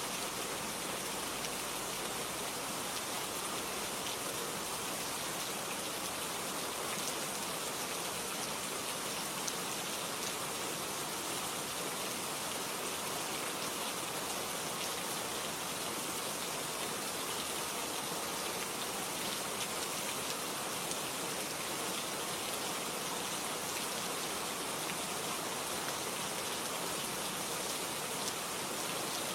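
Steady rain falling, an even hiss with fine scattered drops pattering.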